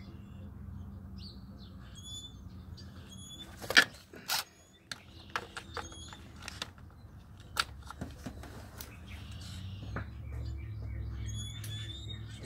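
Birds chirping in short repeated high calls, with a few sharp clicks and clinks of hand tools and parts on the engine, the loudest about four seconds in, over a low steady hum.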